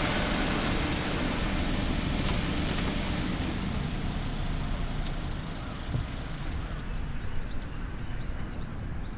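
Steady rushing outdoor noise with no clear single source, joined near the end by a quick series of short, high chirps.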